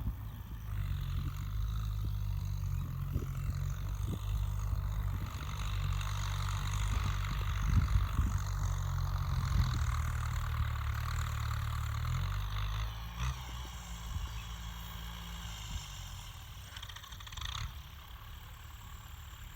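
Kubota M6240 tractor's diesel engine running steadily under load while rotary-tilling a soft, wet rice paddy; it grows fainter about two-thirds of the way through as the tractor moves away.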